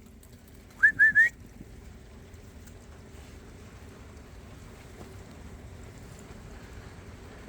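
A person whistling to call a dog: three quick, slightly rising whistled notes about a second in, over faint steady rain.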